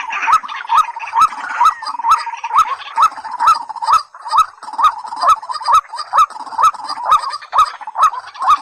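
A rail calling a steady series of short rising notes, a little over two a second, with a sharp click alongside each note.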